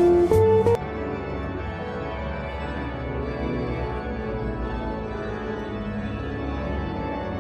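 Music with an organ sound: a few short, louder notes in the first second, then a long chord held steadily.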